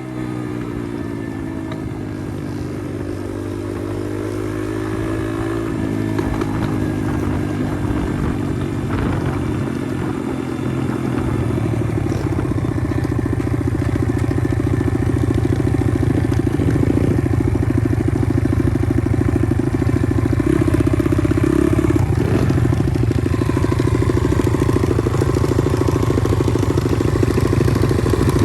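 Pit bike engine running while riding. Its pitch slides down and back up over the first few seconds, then holds a fairly steady note that slowly grows louder.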